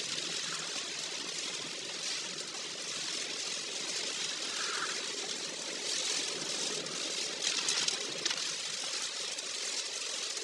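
Car driving in heavy typhoon rain on a wet road: a steady hiss of rain and tyre spray, with a few louder patches of splashing or debris under the tyres.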